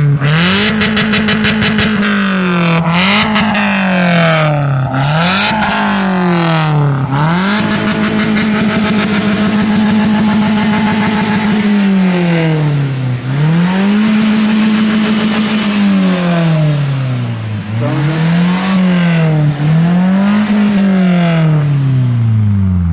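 Car engine revved again and again through a newly fitted large exhaust with its valve open. The revs climb quickly, hold high and fall back about seven times, once held high for several seconds in the middle, and drop away at the end.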